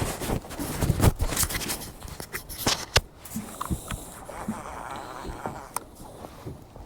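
A run of sharp knocks, clacks and scrapes, as of gear being handled on a small boat's deck. They are densest and loudest in the first three seconds, then thin out to lighter taps.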